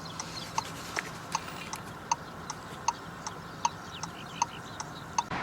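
Car's turn-signal indicator ticking steadily, about two and a half ticks a second.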